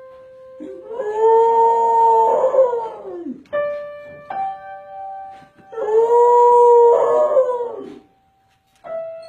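Dog howling along to a piano. Single piano notes are struck and left ringing, and each time a long howl answers them. There are two howls, each lasting two to three seconds, with another piano note struck near the end.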